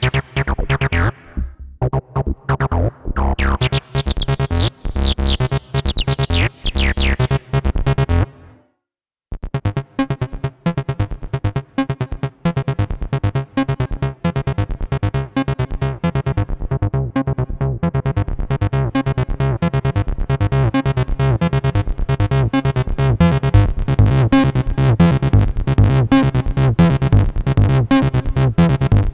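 Behringer TD-3-MO bass synthesizer playing a 303-style acid bassline sequence, its filter sweeping down in squelchy falls. Just under nine seconds in the pattern stops for a moment, then a new, denser sequence of quick short notes starts.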